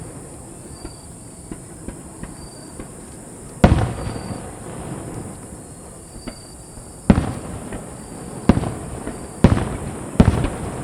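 Aerial fireworks shells bursting overhead: five loud booms, each trailing off in an echo, come from about a third of the way in, the last three in quick succession near the end, with fainter pops and crackles between them.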